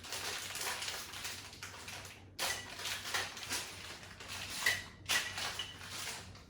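Light clicks and handling noises of hooks being threaded onto a rail pole, over a steady hiss.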